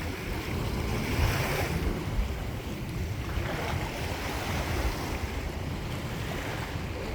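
Wind buffeting the microphone with a low rumble over the steady wash of moving water, swelling gently now and then.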